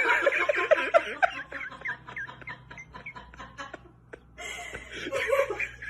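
A person laughing in two bouts of quick repeated bursts, the first fading away and the second starting about four seconds in.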